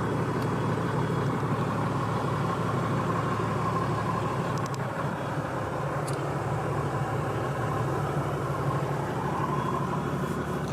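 Toyota 1HD 4.2-litre inline-six turbo diesel idling steadily, heard as a low, even hum from inside the cabin, with a few faint clicks.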